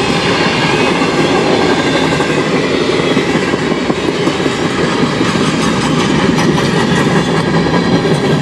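Canadian National freight train passing at close range: a loud, steady rumble of wheels on rail with clicks over the rail joints.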